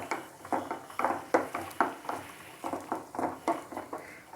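Spatula stirring and scraping in a kadai while halved shallots sauté in oil: a string of short strokes, about three a second, that stops near the end.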